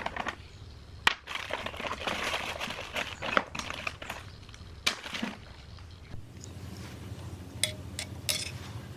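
Hand work on small parts: a scraping, rubbing noise, then several sharp clicks and metallic clinks, over a low steady hum that grows stronger after about six seconds.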